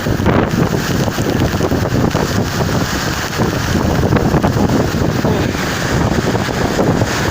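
Very strong storm wind buffeting the microphone: a loud, continuous rumbling roar with constant gusty fluctuation.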